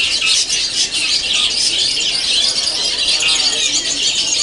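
Several caged long-tailed shrikes (cendet) singing at once: a dense, continuous chorus of rapid, high chirps and trills.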